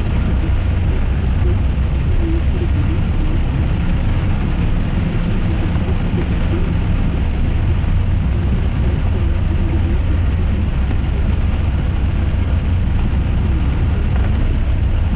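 Steady road and engine rumble inside a moving car's cabin, with rain falling on the car.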